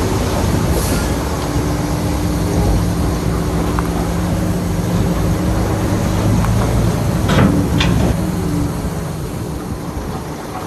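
Shantui bulldozer's diesel engine running steadily with a dense low rumble, and two sharp knocks about seven seconds in.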